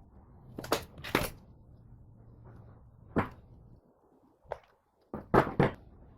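About six sharp knocks and clunks, like parts or tools being set down and handled on a workshop bench, with a faint background hum that drops out about two-thirds of the way through.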